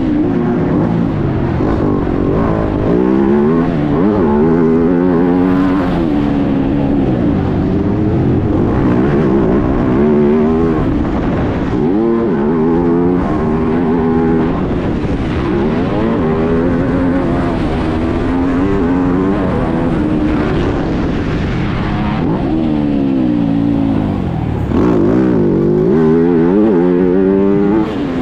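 MX2 motocross bike engine heard from an onboard camera, revving up and dropping back over and over as the rider accelerates, shifts and rolls off the throttle around the track.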